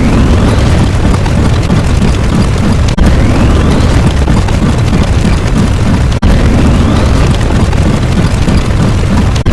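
Loud explosion sound effect repeated about every three seconds, each time a dense low rumble with a faint rising whistle at its start, broken by a short cut between repeats.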